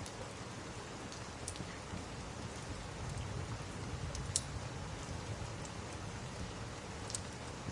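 Steady rain falling, with a few sharp pops from a crackling log fire. The loudest pop comes a little past the middle.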